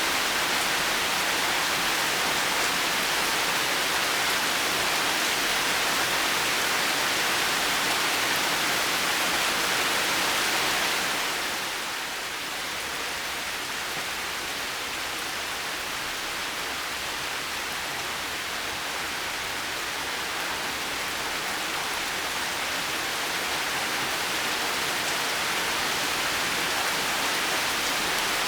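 Heavy rain falling steadily as a dense hiss, easing a little about eleven seconds in and slowly building back up toward the end.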